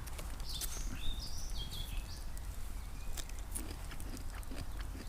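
Faint scattered clicks and scratches from roasted burdock root being skinned by hand. A bird chirps a few short notes about a second in.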